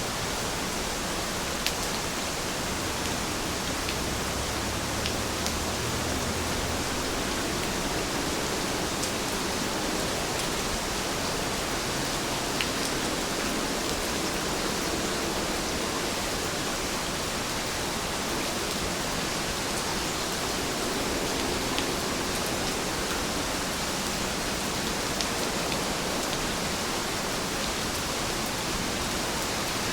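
Steady rain falling, an even hiss with occasional single drops ticking through it.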